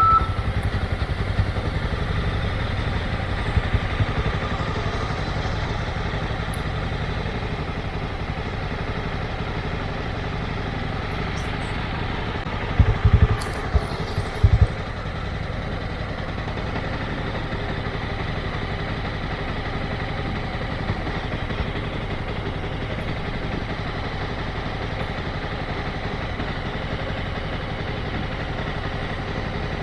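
Motorcycle engine running steadily at low speed, with a couple of short low thumps about halfway through.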